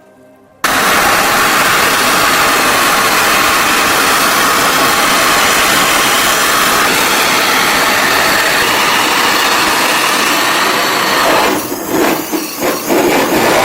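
A power tool working the rusty metal of an antique oil lamp: a loud, steady, noisy grinding that starts about half a second in and briefly breaks up into short bursts near the end.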